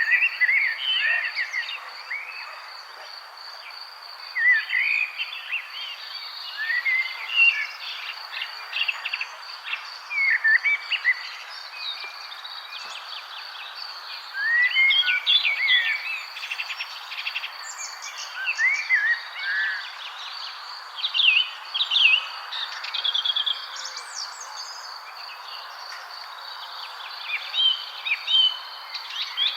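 Several songbirds chirping and twittering in short, irregular phrases over a steady high-pitched trill and a soft background hiss.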